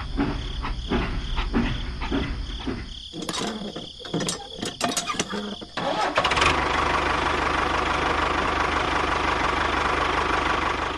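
A run of irregular clicks and knocks, then about six seconds in a motor starts and runs steadily.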